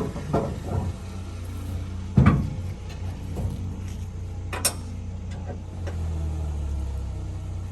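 Vehicle engine idling steadily under a heavy thump about two seconds in and a sharp click a couple of seconds later, with a few lighter knocks.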